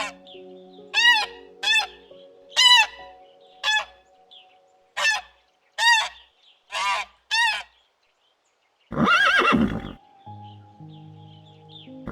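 Goose-like honking bird calls, about nine short honks over the first eight seconds, over soft background music. About nine seconds in comes a longer, louder horse whinny.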